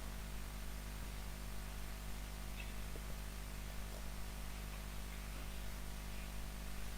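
Steady low electrical hum and hiss of background noise, with a few faint short sounds; no recitation.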